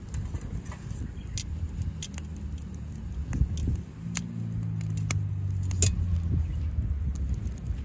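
Split firewood burning in a small fire pit, crackling with scattered sharp pops. A low engine hum comes in about halfway through and fades a couple of seconds later.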